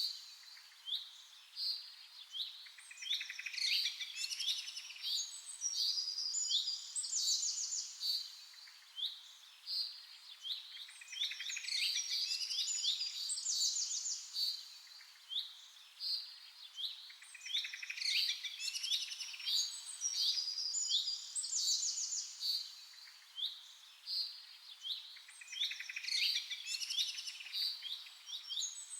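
Several songbirds chirping and singing at once: quick, high-pitched chirps and trills overlapping in bursts that swell and fade every few seconds.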